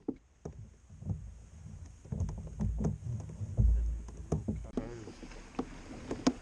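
Sounds of a fishing kayak on the water: uneven low rumbling thumps and small knocks, the deepest and loudest rumble about three and a half seconds in.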